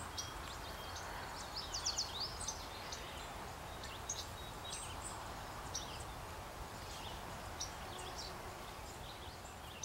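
Small birds chirping with short, high calls scattered throughout, including a quick run of notes about two seconds in, over a steady low background noise.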